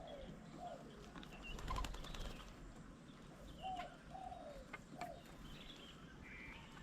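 A dove cooing in short, falling notes repeated in small groups, with small birds chirping higher above it and a few sharp taps.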